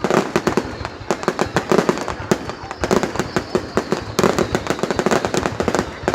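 Fireworks display: a dense, continuous barrage of overlapping bangs and crackles, several a second.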